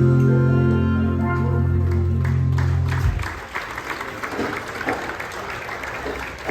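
A live band's final held chord, with a strong low bass note, rings out and stops about three seconds in. Audience applause follows.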